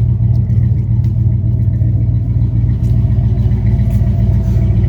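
1984 GMC Jimmy K5's engine idling steadily, a low, even exhaust rumble through its Flowmaster muffler.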